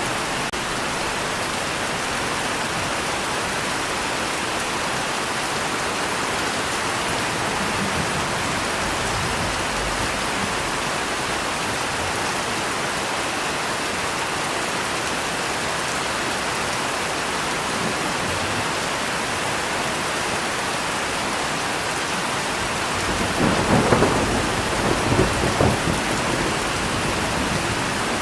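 Steady heavy rain falling, with a clap of thunder rumbling and crackling for a few seconds near the end.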